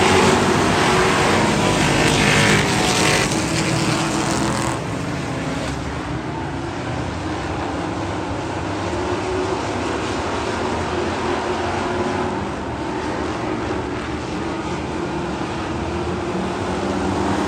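Race car engine running at a fairly steady pitch, with a loud hiss over it for the first five seconds or so that then falls away.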